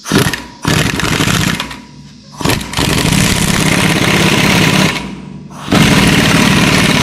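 Impact wrench hammering on the center bolt of a harmonic balancer puller on a 6.0L LS crankshaft, in several bursts, the longest about two seconds. The balancer is stuck, and the pushrod used as the puller's pin is bending.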